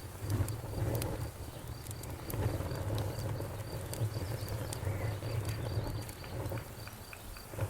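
Fire burning, with scattered sharp crackles and pops over a low, uneven rumble.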